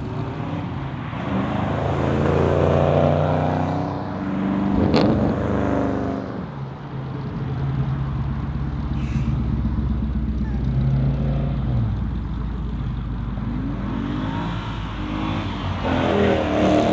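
Muscle car engines running and revving as the cars pull away, the revs climbing twice, with one sharp crack about five seconds in.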